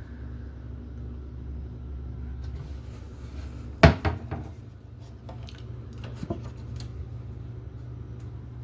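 A sharp knock about four seconds in, followed by a few lighter knocks, like a cupboard door or objects being handled, over a steady low electrical hum.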